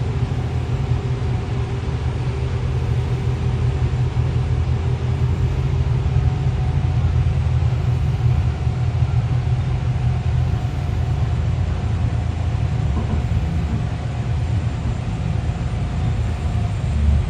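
Steady low rumble of a moving passenger vehicle heard from inside the cabin, with a faint steady whine on top and a brief louder bump near the end.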